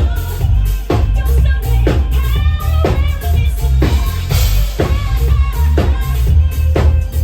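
Band music with a drum kit and a heavy bass line, a sharp drum hit about once a second.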